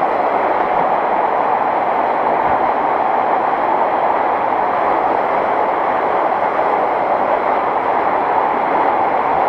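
Steady rush of flowing water inside an underground river culvert, an even noise with no breaks.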